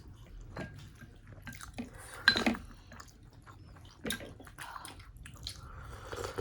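Close-up wet eating sounds: chewing and slurping of momos and chicken soup, with scattered small clicks and one louder sharp sound about two and a half seconds in.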